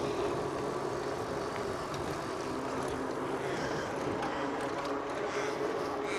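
Steady road traffic noise: a motor vehicle engine running, with a low, even hum.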